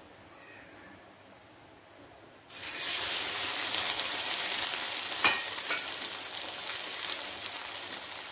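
French toast frying: an egg-and-milk-soaked slice of bread laid in a hot, lightly oiled nonstick pan. A steady sizzle starts suddenly about two and a half seconds in and keeps going, with one sharp tap a few seconds later.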